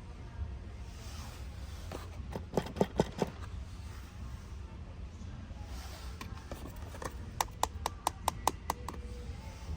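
Plastic toys and packaging being handled: a few sharp clicks and taps about two and a half seconds in, then a quick run of about eight clicks a few seconds later, over a low steady hum.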